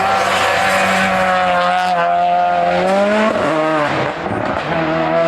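A hill-climb race car's engine running hard under acceleration, its pitch rising slowly, then dropping sharply about three seconds in and climbing again.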